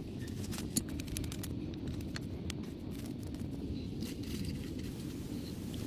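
Wood fire crackling with scattered sharp pops over a steady low rumble of wind on the microphone.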